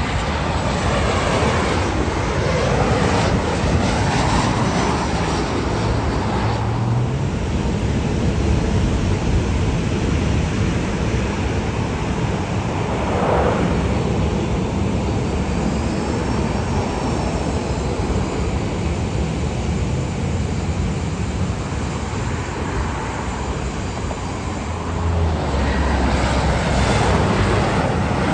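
Jet airliner engines, a loud, steady rush of noise with a faint high whine.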